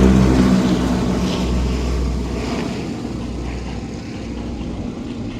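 A propeller airplane's engine drones as the plane passes, loudest at the start and fading away over the next few seconds.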